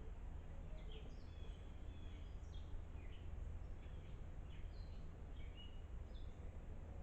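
Small birds chirping: short, quick chirps, many sweeping down in pitch, from more than one bird, over a steady low rumble.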